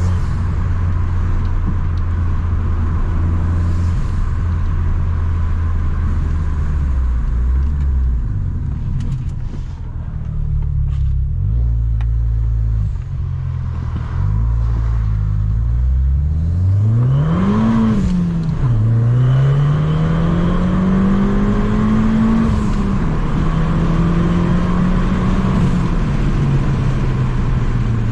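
Abarth 595 Competizione's turbocharged 1.4-litre four-cylinder engine, tuned to about 215 hp and fitted with a 60 mm exhaust with no centre silencer. It runs at a steady low note for a while. About 16 seconds in, the revs rise sharply and fall back, then climb again, hold, and ease off near the end.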